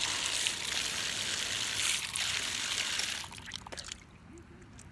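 Water pouring and splashing as a face is washed by hand, a steady trickling hiss that stops about three seconds in, followed by a few small splashes and drips.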